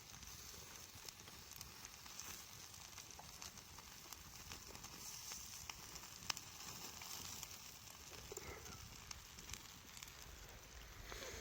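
Wood campfire crackling: scattered sharp pops and snaps over a steady hiss, one louder pop about six seconds in.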